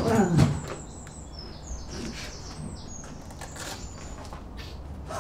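Small birds chirping, short high chirps scattered throughout, after a man's brief falling cry at the very start.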